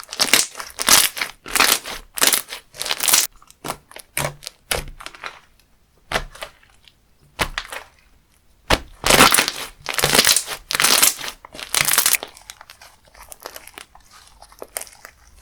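Crunchy slime being squeezed and pressed by hand, crackling in clustered bursts of squeezes, with sparse clicks between and quieter crackle near the end.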